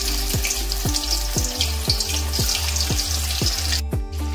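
Small pieces of steamed egg-and-potato dhoka sizzling loudly as they fry in hot oil, the sizzle breaking off briefly near the end. Background music with a steady beat of about two notes a second plays under it.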